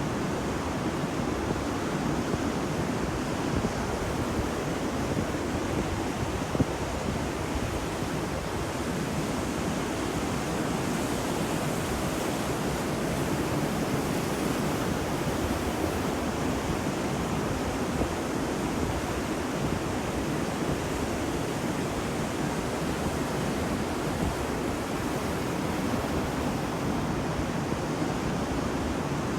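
Ocean surf on a beach: a steady rushing wash of waves with no distinct breaks.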